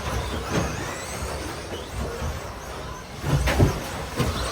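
Radio-controlled stadium trucks racing, their motors whining and rising and falling in pitch as they speed up and slow down. A few knocks come about three and a half seconds in.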